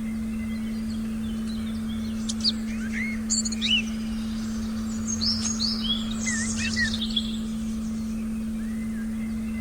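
Songbirds chirping in a forest soundscape, with a burst of quick chirps and short sliding whistles in the middle few seconds, over a steady low sustained tone and a soft low rumble.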